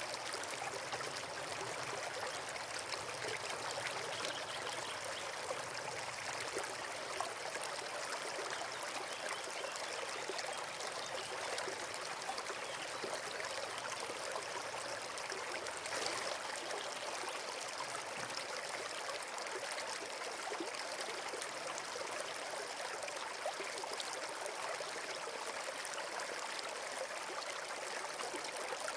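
Forest stream running steadily over stones, a continuous trickling and babbling of water.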